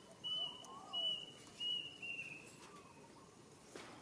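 A bird calling a run of short, high whistled notes on one pitch, about four in two seconds, the last drawn out and slightly falling. Fainter, lower calls sound in the background, and there is a single click near the end.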